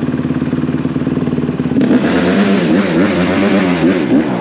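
Dirt bike engine idling steadily. Just under two seconds in it gets louder and revs up and down several times.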